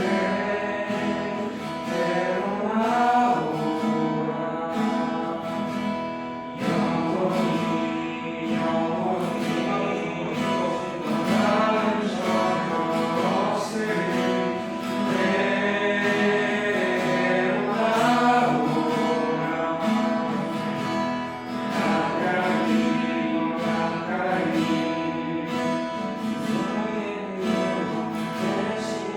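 Worship music: acoustic guitar strumming chords while voices sing along.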